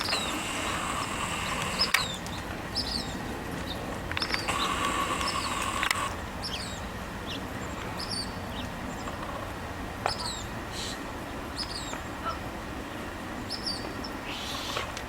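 A small bird repeating a short, high, falling chirp about once a second. A steady whine sounds under it for the first two seconds and again around four to six seconds in.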